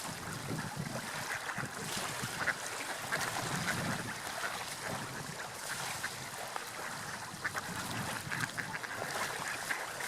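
Gulls calling in many short, scattered squawks over a steady wash of sea waves.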